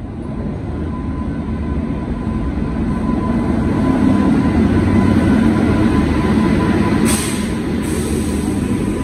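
Indian Railways electric locomotive and its coaches passing through a station at speed: a loud, steady rumble that builds over the first few seconds. A brief hiss rises over it about seven seconds in.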